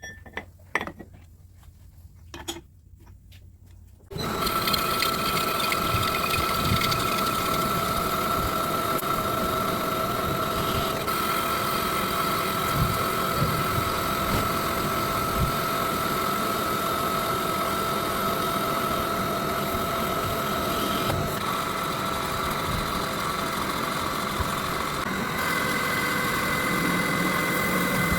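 A few light clicks, then about four seconds in an electric power tool switches on and runs steadily with a constant whine.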